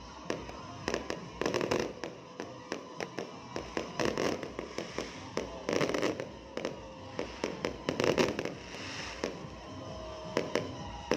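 New Year fireworks and firecrackers going off, many sharp bangs and crackles in irregular quick succession, with louder clusters about four, six and eight seconds in.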